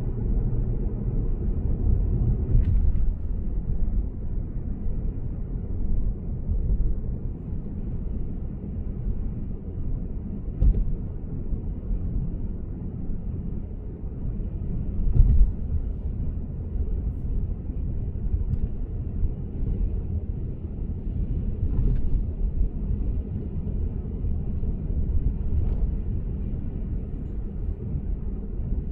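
Lexus GS450h cruising on an expressway: steady, low road and tyre rumble, with a few faint thumps along the way, the loudest about halfway through.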